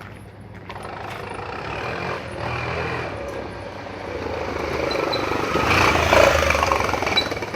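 Scooter engine revving through a taped-up exhaust, a trick meant to make it sound like a Duke motorcycle. The revs rise about a second in, climb again to a peak around six seconds in, then drop near the end.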